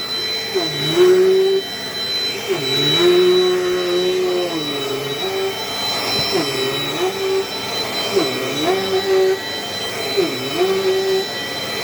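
Dirt Devil Dynamite Plus upright vacuum running while vacuuming, a steady motor whine with a high tone above it. The pitch dips briefly and comes back up about every two seconds, six times in all.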